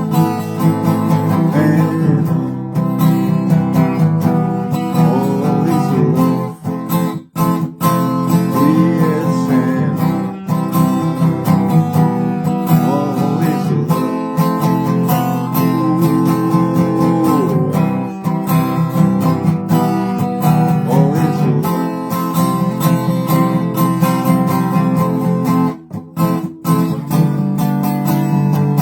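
Acoustic guitar strummed in steady chords, an instrumental passage of a song; the playing briefly drops off twice, about a quarter of the way in and near the end.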